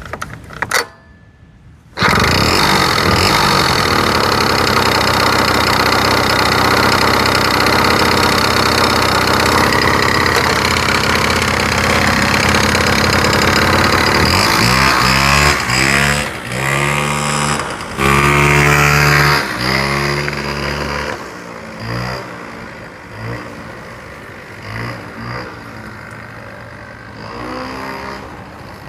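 Honda Leader AF03 scooter's two-stroke engine, running at steady high revs. About halfway through, the throttle is blipped several times, and the engine then settles to lower revs with a few smaller blips.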